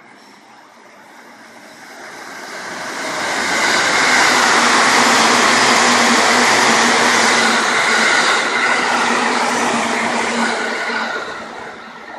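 A passing train runs through the station without stopping. Its wheel and running noise builds over about two seconds, holds loud with a steady hum beneath it, then fades near the end.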